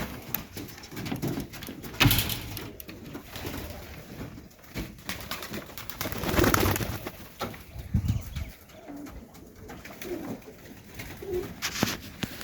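Domestic pigeons cooing in a loft, with scattered short knocks and rustles from the birds moving about.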